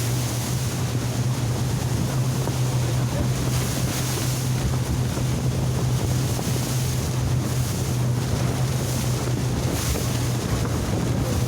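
Tour boat under way: its engine runs with a steady low hum beneath rushing water and wind buffeting the microphone.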